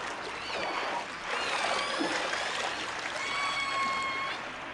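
Killer whale (orca) calls: several high-pitched calls, some gliding up and down in pitch, the last one held steady for about a second, over a steady watery hiss.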